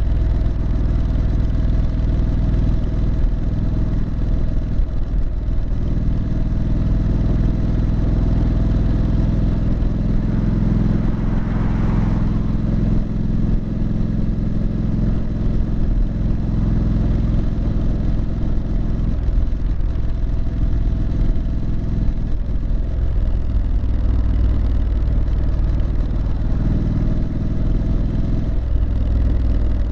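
Exhaust note of a Triumph Street Scrambler's 900 cc parallel-twin engine under way, running steadily with the engine speed rising and falling several times.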